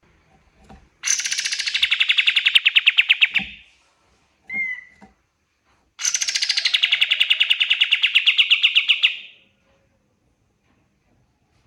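White-shouldered triller (kapas tembak) singing: two long, rapid, evenly pulsed trills, each about three seconds, starting high and dropping slightly in pitch, with a short call between them.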